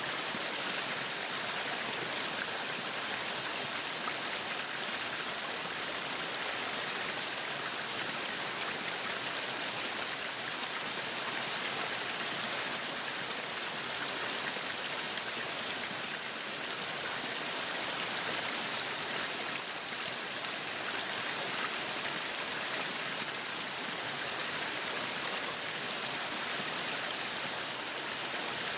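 Meat sizzling on a yakiniku grill: a steady, even crackling hiss.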